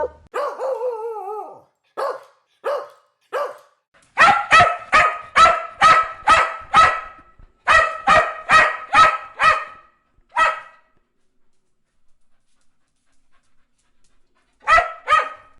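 Dog barking. It opens with a drawn-out whining call that wavers and falls in pitch, then gives three spaced barks and a long run of fast barks, about two to three a second, with a short break midway. After a lone bark and a few seconds' pause, two more barks come near the end.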